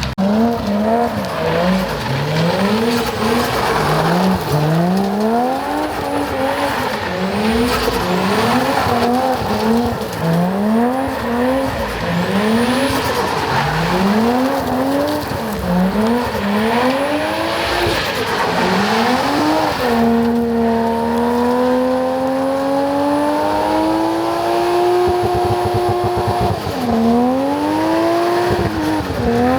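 Car engine being revved over and over, the pitch climbing and dropping about once a second. Near the end it rises into a longer, steadier pull, dips, and climbs again.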